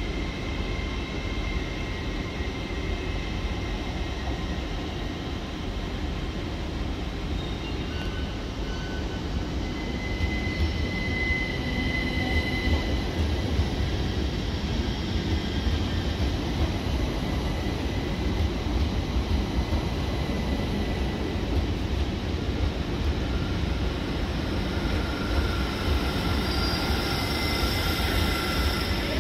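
Electric trains moving through a station at low speed: a steady rumble of wheels on rail with a few thin, high steady tones. It grows louder about a third of the way in as a Great Northern Class 387 electric multiple unit rolls past close by.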